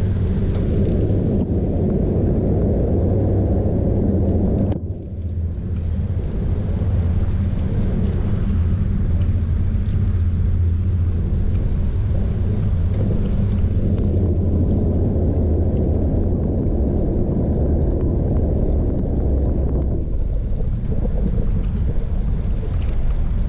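Wind buffeting the microphone of a chest-mounted camera on a moving bicycle: a steady low rumble, with a brief drop about five seconds in.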